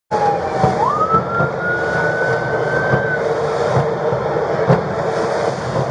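Motorboat running at speed: a steady engine drone mixed with wind and rushing water, with a few short thumps. A high whine dips, then jumps up about half a second in and climbs slowly until about three seconds in.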